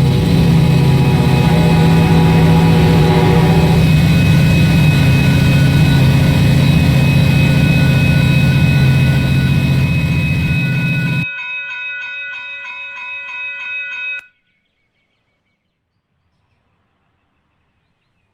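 Freight train passing close: diesel locomotive engines running loud over heavy wheel and rail noise. About eleven seconds in the sound drops abruptly to a quieter one with several steady high tones, which cuts off suddenly about three seconds later.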